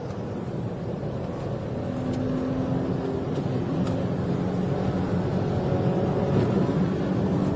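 Police car driving at speed, a steady engine and road drone that gradually gets louder.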